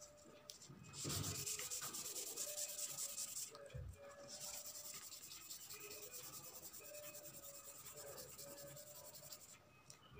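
Colouring or shading on paper with quick back-and-forth strokes, a scratchy rubbing that starts about a second in, pauses briefly about three and a half seconds in, and stops near the end.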